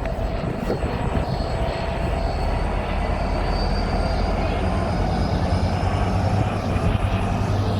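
A train running at the station: a steady low engine or motor rumble with a faint high whine that slowly rises in pitch.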